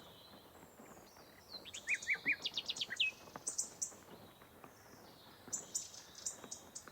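Small birds chirping: a quick run of short, sweeping chirps about two seconds in, more high notes around three and a half seconds, and another burst of chirps near the end, over a faint outdoor background.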